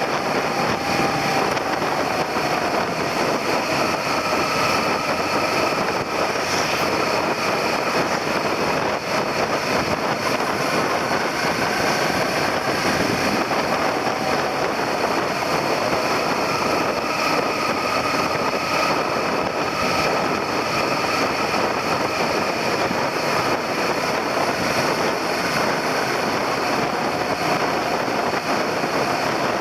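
Suzuki SV400 motorcycle's V-twin engine running at cruising speed, its pitch drifting slowly up and down with the throttle, under steady wind and road noise.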